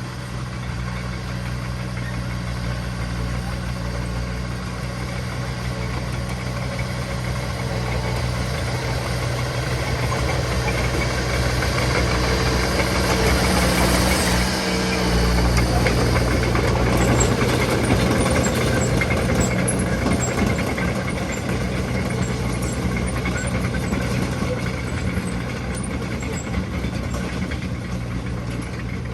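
Heavy diesel earthmoving machine engine running steadily, growing louder toward the middle as it works close by, then easing off again.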